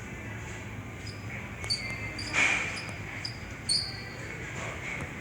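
Ceiling fans running on a store display: a steady low hum with short high squeaks and scattered ticks, and a brief louder whoosh about two and a half seconds in.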